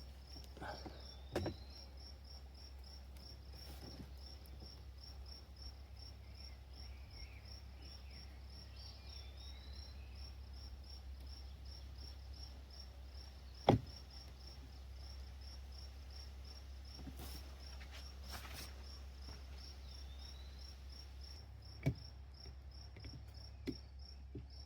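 Crickets chirping in a fast, even pulse over a steady low hum, broken by a few sharp knocks, the loudest about fourteen seconds in.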